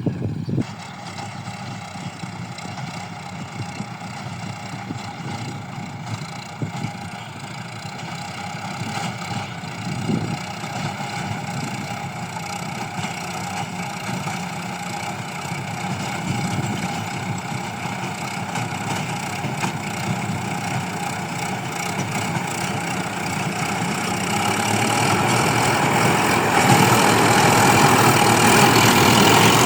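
Tractor engine running steadily, growing louder over the last few seconds.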